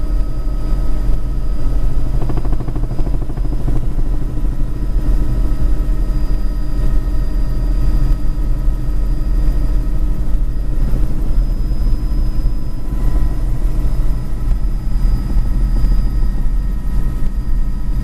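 Helicopter in flight: steady rotor and engine noise with a heavy low rumble and several steady tones above it.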